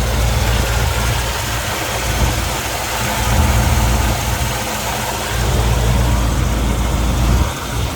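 Fuel-injected 383 stroker small-block V8 idling steadily through long-tube headers and Flowmaster exhaust, a low, even rumble.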